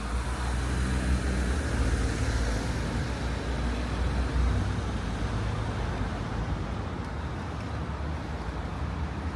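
Street traffic: a motor vehicle passes close by. Its low engine rumble and tyre noise swell over the first couple of seconds, then ease into a steady traffic hum.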